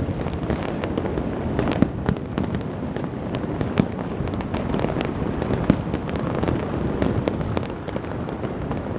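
Fireworks and firecrackers going off continuously, a dense rumble of distant bursts with many sharp cracks and pops over it.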